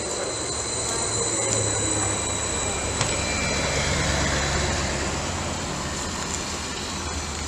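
Greater Anglia Class 755 bi-mode train running on its diesel engines: a steady low engine hum under a thin, steady high-pitched whine.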